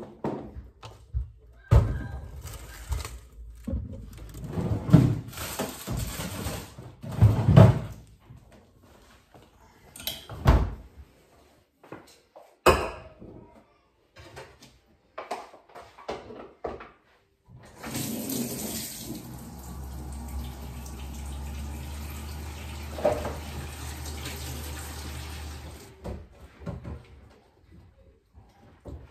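Household knocks and clatter, then water running steadily from a tap into a sink for about eight seconds, stopping near the end.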